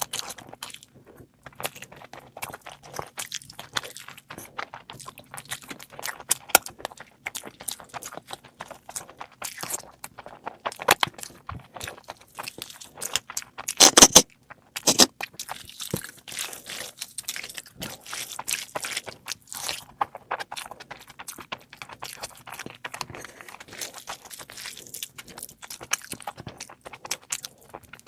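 A person eating close to the microphone: steady chewing with many irregular crunches and bites, and a louder run of crunches about halfway through.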